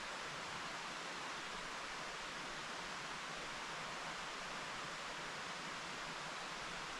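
Mountain stream flowing: a steady, even rush of water with no distinct events.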